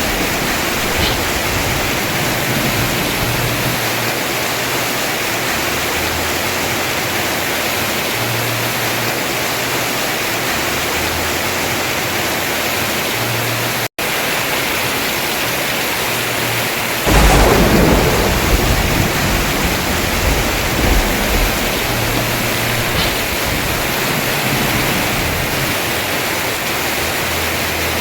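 Heavy rain falling steadily on a house roof. About two-thirds of the way in comes a loud clap of thunder that rumbles away over a couple of seconds, and midway the sound drops out for a split second.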